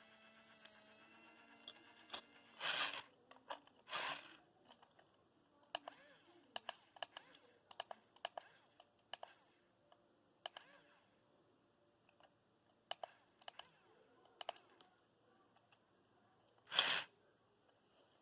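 Scattered sharp plastic clicks and three short, louder rattles from a remote-control toy construction tractor.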